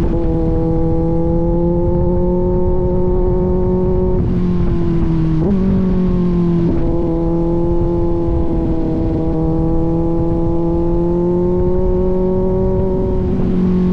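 Kawasaki Z900 inline-four motorcycle with an aftermarket AR exhaust, running at a steady cruising throttle. The exhaust note holds an even pitch, with a brief blip in pitch about five and a half seconds in.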